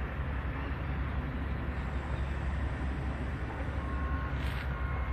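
Steady low engine rumble from construction machinery and passing vehicles, with faint short beeps near the end.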